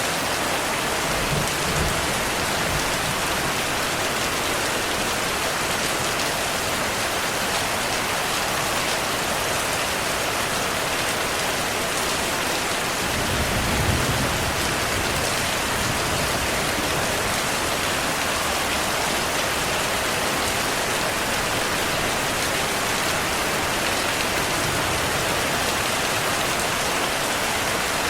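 Steady heavy rain falling on surfaces, with a low rumble of distant thunder swelling about halfway through and a fainter one near the start.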